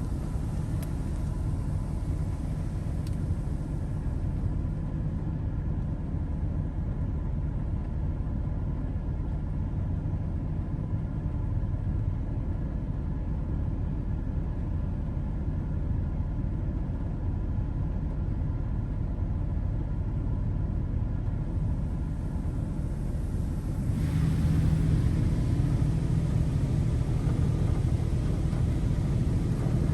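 Washworld High Velocity touchless in-bay car wash running, heard from inside the car as a steady low rumble and hum. About 24 seconds in, a hiss of water spray on the car gets louder and the rumble swells.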